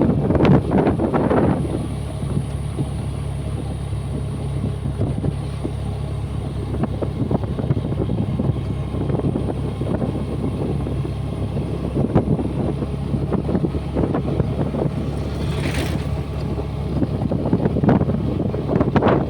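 Honda Dio 125 scooter's single-cylinder engine running at a steady cruise, with wind buffeting the microphone in gusts.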